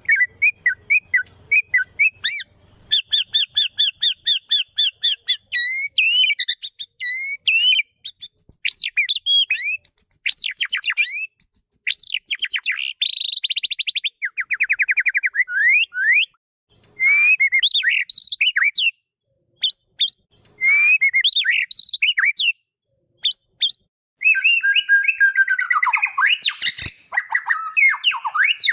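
White-rumped shama (murai batu) singing a varied song of fast runs of repeated notes, rising and falling whistles and rapid trills, broken by a few short pauses between phrases.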